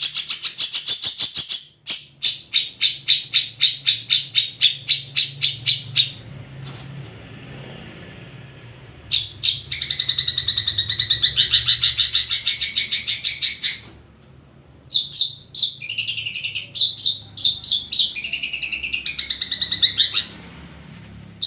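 Long-tailed shrike (cendet) singing in a full, dense song. First comes a fast run of sharp repeated notes, about six a second. After a pause there is a dense chattering run, then broken, varied phrases.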